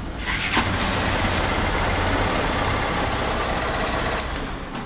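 Honda CG 150 Titan's single-cylinder four-stroke engine running after starting on the electric starter, a little louder shortly in and dying away near the end. It now starts on the button because current from the battery's positive terminal reaches the starter relay again, after a new positive cable.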